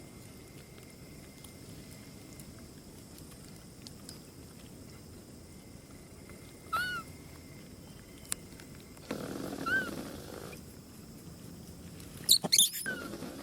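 Monkey calls: a short squeak about seven seconds in, another squeak over a brief rustle around ten seconds, then a burst of loud, high-pitched squeals near the end.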